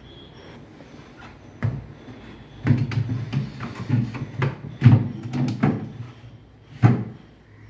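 Irregular knocks and clunks, five or six over several seconds, from refrigerator parts such as the shelves, drawer or door being handled.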